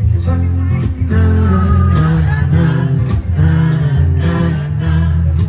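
Live acoustic band music: acoustic guitar played over a bass guitar, with a voice singing.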